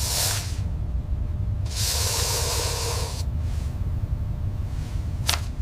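Two hisses, a short one at the start and a longer one of about a second and a half, over a steady low rumble, with a sharp click near the end.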